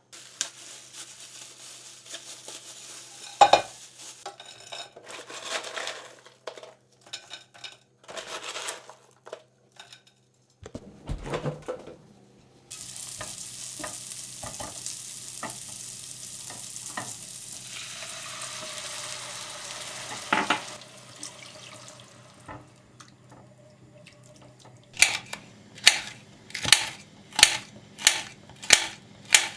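Kitchen cooking sounds: pots and utensils clattering, then chicken pieces sizzling in a pan for several seconds before the sizzle dies down. Near the end comes a run of about eight sharp knocks, roughly two a second.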